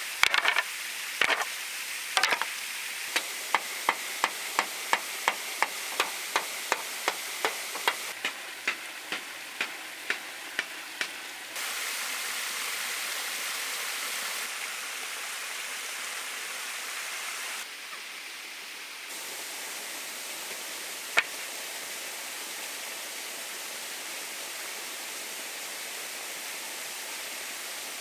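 A quick run of sharp, evenly paced knocks, about three a second, that thins out and stops about ten seconds in, with one more single knock later. Underneath is a steady rushing noise, like running water, that changes level abruptly a few times.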